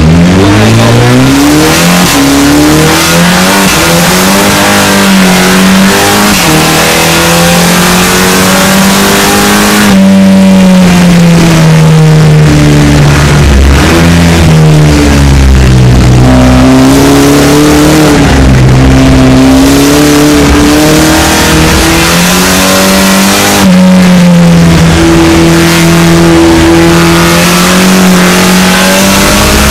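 SEAT León race car's turbocharged four-cylinder engine heard from inside the cabin, accelerating hard through the gears, its pitch climbing and dropping back at each upshift, then rising and falling with throttle and braking through the corners.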